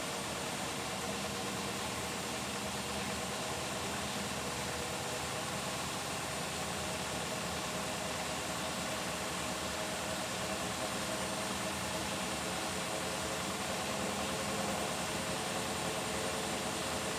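Beko WTK104121W washing machine running through its delicates cycle: a steady motor hum under an even rushing noise, with no pauses or changes.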